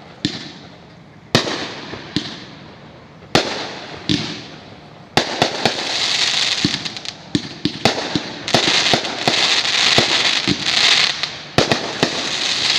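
Aerial fireworks shells firing and bursting, with a sharp bang about every second. About five seconds in they give way to a dense run of crackling stars, many quick pops over a continuous fizzing crackle.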